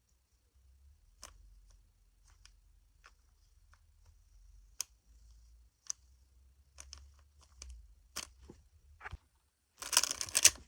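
Rubik's cube being turned by hand: scattered plastic clicks and clacks, then a fast, loud flurry of turns near the end.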